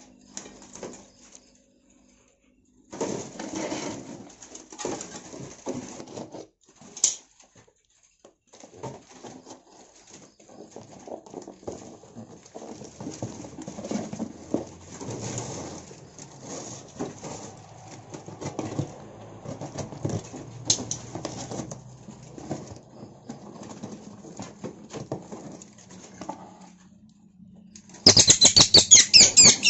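Small wild-caught songbirds fluttering and scuffling in a box or cage, wings flapping in irregular bursts with a short lull near the start. About 28 seconds in, loud, rapid, high-pitched chirping breaks out.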